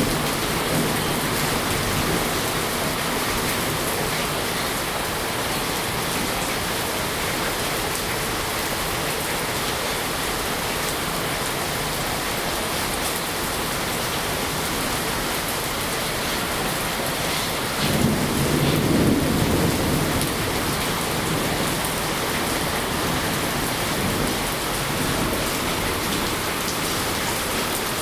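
Steady rain hiss, with a low rumble lasting about two seconds around eighteen seconds in.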